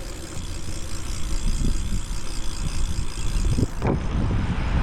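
Road traffic: a low rumble of a passing motor vehicle that slowly grows louder, with a brief knock near the end.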